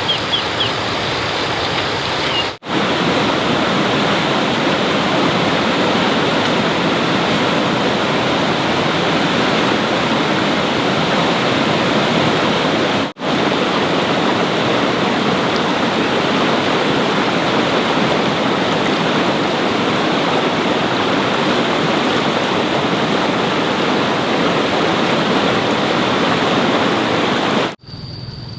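A loud, steady rushing noise like running or falling water, broken twice by brief cuts.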